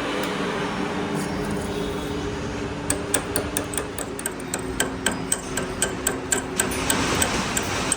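A workshop machine running with a steady hum, joined about three seconds in by quick, evenly spaced metallic ticks, about four or five a second.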